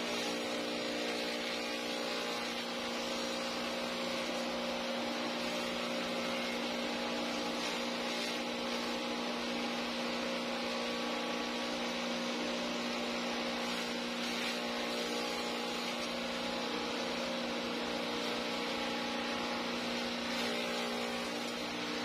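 Motor of a DIY grass chopper running at a steady speed, giving an even hum.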